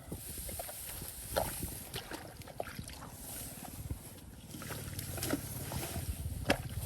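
Shallow muddy water sloshing and splashing as it is worked by hand, with a few sharper splashes, the strongest about a second and a half in and near the end.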